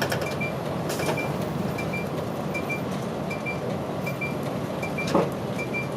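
Route bus running with steady engine and road noise inside the cabin, with a turn-signal indicator sounding in regular double pips, about one pair a second; the bus is pulling in to a stop. A short, louder sound comes about five seconds in.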